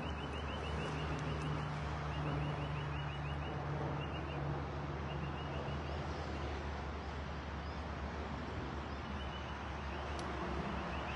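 Steady outdoor rushing noise with a low hum, over which something repeatedly gives short, rapid, high-pitched chirping trills, each lasting about a second. The trills are several in the first half and fewer after.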